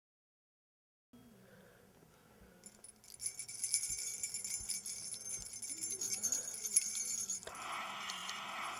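Metallic jingling, high and shimmering with small clicks, starting about three seconds in after a silent opening. A steady hiss joins near the end.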